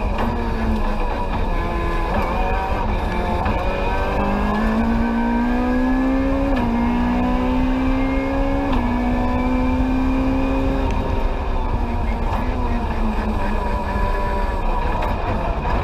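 Rally car engine heard from inside the cabin, pulling hard under full throttle with its pitch climbing, two quick upshifts about six and nine seconds in, then easing off with the pitch falling near the end. Steady road and tyre rumble runs underneath.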